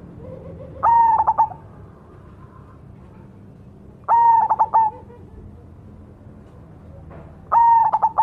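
Zebra dove (perkutut) of the black cemani variety cooing its song: three short phrases of a few quick notes each, about three seconds apart.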